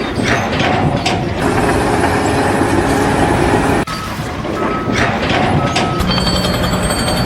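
Loud engine noise of heavy vehicles or machinery in short clips cut together, with a broken high beep like a reversing alarm between about four and six seconds in.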